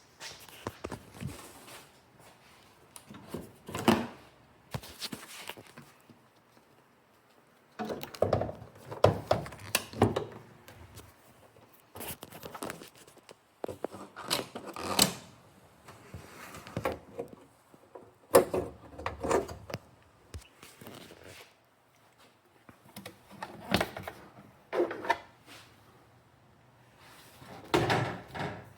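Irregular bouts of clunks, knocks and light rattling from handling tools and parts during hands-on work under a car's hood, with quiet gaps between bouts.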